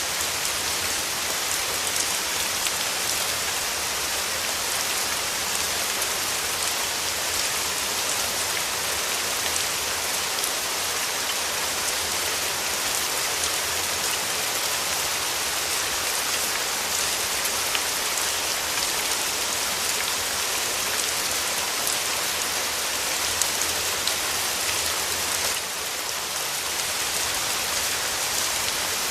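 Steady rain falling, an even hiss sprinkled with many small drop impacts.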